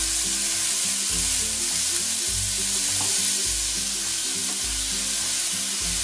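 Cubed chicken with ginger sizzling steadily in hot oil in a non-stick frying pan, stirred with a wooden spatula toward the end. Background music with low notes changing about once a second plays under it.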